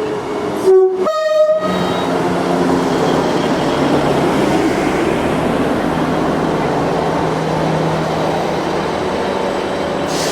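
Two-tone diesel locomotive horn sounding a short low note then a higher one, followed by the steady rumble and rush of a train passing at speed.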